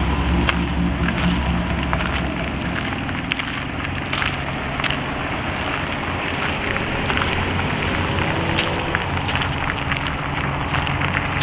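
Car engines idling, a steady low rumble, under a constant crackling and crunching noise.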